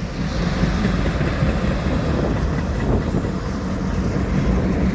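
Freight train rolling past close by: a steady, loud rumble of wheels on the rails.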